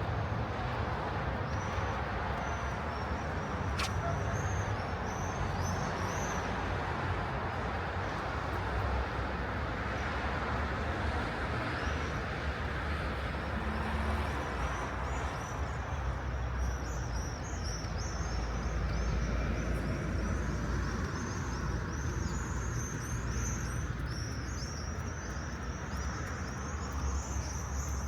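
Steady city street traffic: cars passing with a continuous rumble and tyre hiss. Small birds chirp over it, a few early on and many more from about halfway through.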